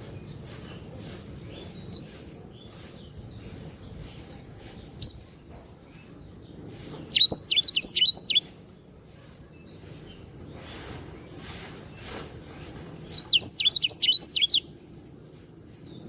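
A sanger, a canary–blackthroat hybrid finch, singing: two single chirps, then two short bursts of rapid, high, trilling song several seconds apart.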